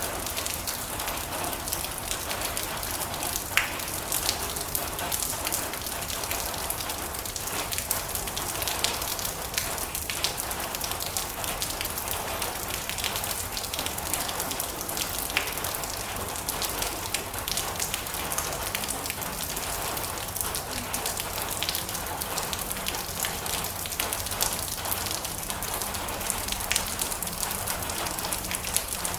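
Heavy rain drumming steadily on a metal roof, a dense patter with scattered sharper drop strikes and a few louder single hits.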